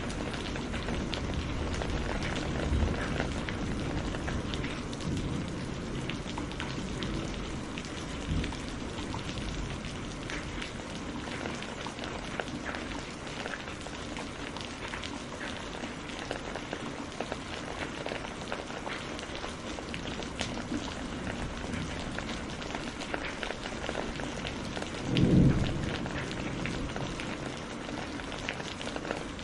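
Steady rain falling, with many individual drops ticking through the hiss. A brief low rumble swells and fades near the end.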